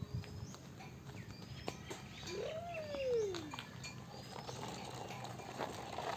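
Short, high bird chirps repeating, and one longer animal call near the middle that rises and then falls in pitch over about a second.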